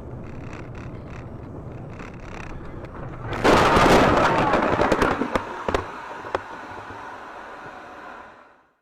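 Car collision heard through a dash cam: steady road noise, then about three and a half seconds in a sudden loud crash with a crunching rush of noise and scattered sharp clicks of debris, dying away over a few seconds.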